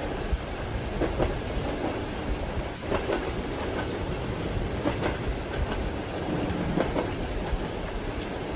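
Railway carriage wheels clacking over rail joints, a pair of knocks about every two seconds, under a steady low rumble of the moving train and the hiss of rain.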